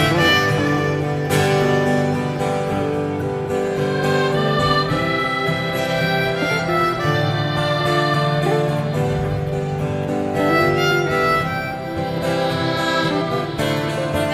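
A live band plays an instrumental break, with a harmonica leading over guitar accompaniment.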